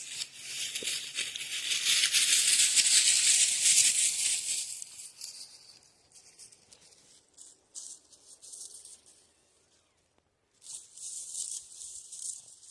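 Footsteps crunching and rustling through dry dead leaves on the forest floor: loud for the first few seconds, then faint and broken, stopping about ten seconds in and starting again near the end.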